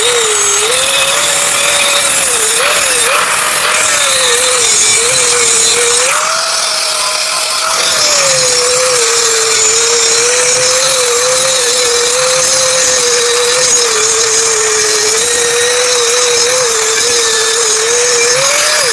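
Angle grinder grinding down weld beads on a steel hydraulic-splitter axe blade, running steadily, its motor whine wavering a little as the load on the disc changes, with a continuous grinding hiss.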